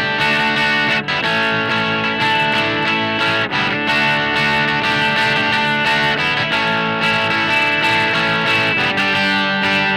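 Guitar playing sustained chords that change every couple of seconds, recorded straight through a Warm Audio WA-412 mic preamp with no EQ or compression.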